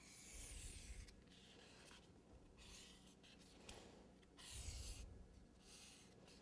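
Faint scratching strokes of a tool drawn across cardboard: four separate strokes, each under a second long.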